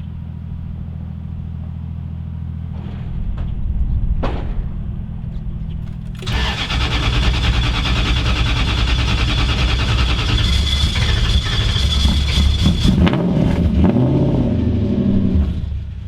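Lexus 1UZ VVT-i V8 swapped into a Mazda B-series mini truck, running on a cold morning: the 1UZ does not like the cold. It runs steadily, gets louder about three seconds in, then much louder and fuller from about six seconds in, easing off near the end.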